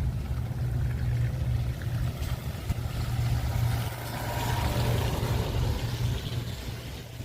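Wind buffeting the microphone in a steady, uneven low rumble, with a rushing hiss that swells about halfway through and fades near the end.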